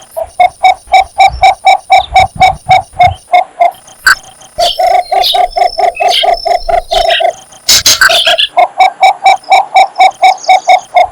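Cinnamon bittern giving its advertising call: a long series of low, evenly repeated notes, about five a second. It breaks off briefly, then resumes in a faster run. A short, louder burst of noise cuts in about two-thirds of the way through.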